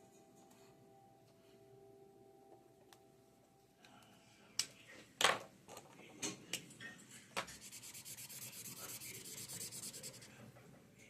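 A few sharp taps, then about three seconds of fast back-and-forth rubbing on paper, like a pencil shading a drawing.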